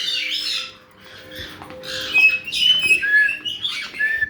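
A flock of caique parrots chirping, squawking and giving short high whistles. The chatter drops away about a second in, then single whistle notes pick up again.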